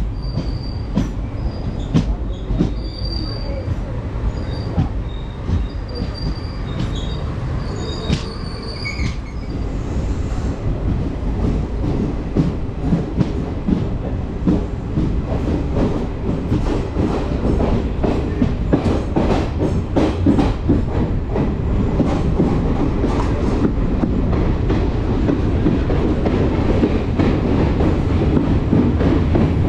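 ICF passenger coach running on the track. In about the first nine seconds the wheels squeal in short high-pitched bursts. After that comes a dense clatter of clicks from the wheels and rail joints, getting gradually louder.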